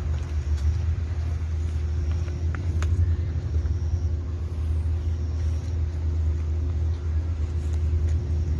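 A steady low mechanical hum with a faint higher tone running through it, and a few faint light clicks.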